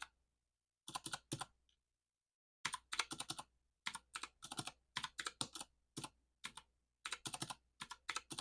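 Calculator buttons tapped in quick runs of several presses with short pauses between, as figures are keyed in and added up.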